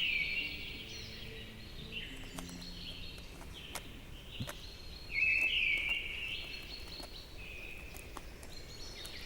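Small birds chirping and calling in a forest, a string of short high notes, louder about five seconds in.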